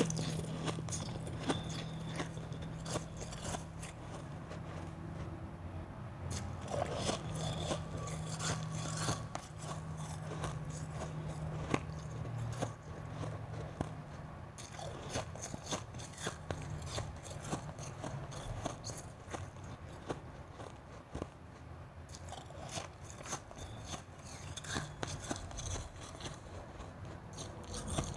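Close-up chewing and crunching of a mouthful of ice, with many irregular crunches throughout and a steady low hum underneath.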